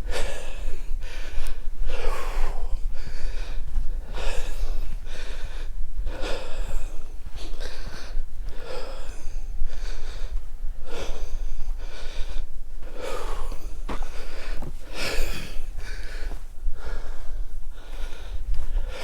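A man breathing heavily and close to the microphone while walking, in and out about once a second, from the effort of the hike.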